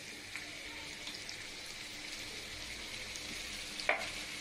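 Soy sauce poured into a hot wok of frying pork fat, onion and garlic, sizzling with a steady hiss and scattered small pops. One sharper click near the end.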